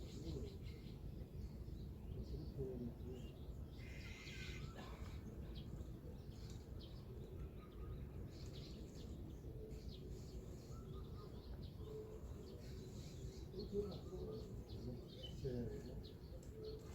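Assorted songbirds chirping sporadically over a steady low background rumble, with a louder, longer call about four seconds in.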